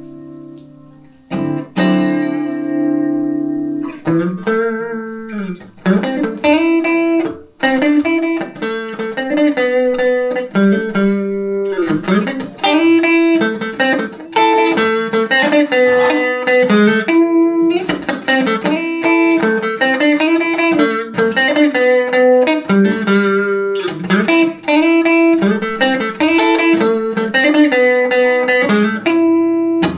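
Electric guitar (a Telecaster through a Roland JC-120 amp) played solo. A chord is struck and held about a second and a half in. From about four seconds on it plays a melodic line of single notes with string bends.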